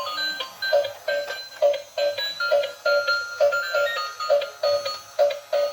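Battery-powered transparent toy car playing its electronic tune: a steady beeping beat about two and a half times a second under a simple high beeping melody.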